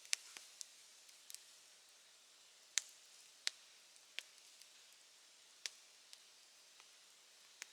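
Campfire crackling: sharp, irregular pops every second or so over a faint hiss, with two louder pops, one right at the start and one a little under three seconds in.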